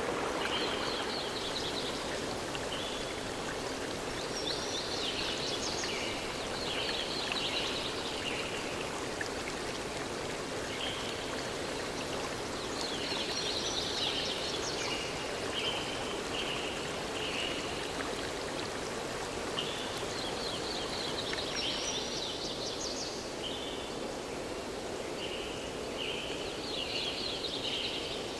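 Forest ambience: a steady rush of flowing stream water, with a songbird singing phrases of rapid trills and short high notes that come back every few seconds.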